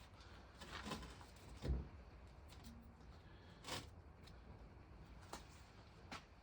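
A few faint, scattered knocks and clatters of metal parts being handled, with the loudest knocks near two seconds and near four seconds in.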